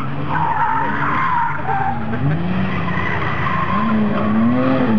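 A BMW E30's engine revving up and down hard as the car slides through a cone slalom, with tyres squealing on the tarmac for the first second or two.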